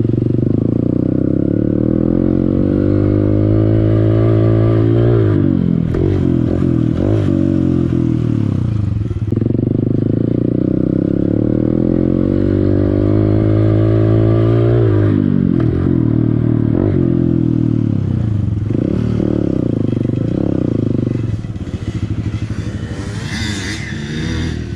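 Honda CRF150L dirt bike's single-cylinder four-stroke engine running under throttle on a trail. Its pitch climbs steadily twice and falls away each time the throttle is closed, then it runs lower and quieter near the end.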